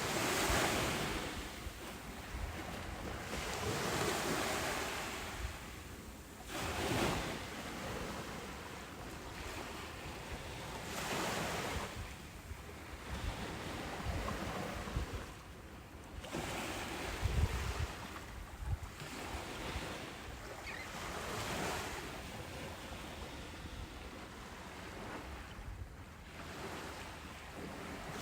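Ocean waves breaking on a beach, the surf swelling and washing in again about every three to four seconds.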